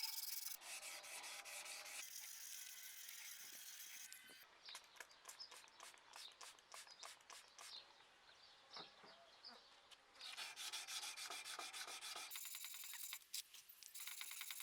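Abrasive rubbing by hand: a steady scraping hiss, then a run of quick separate scraping strokes in the middle, then steady hiss again, joined by abrupt cuts.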